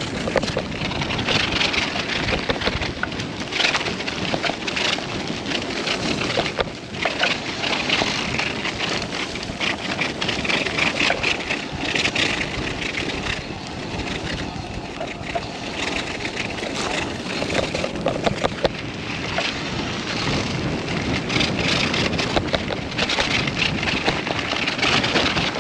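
Mountain bike rolling down a rough, muddy trail: constant tyre noise over dirt and stones with many small clicks and rattles, the level rising and falling with the terrain.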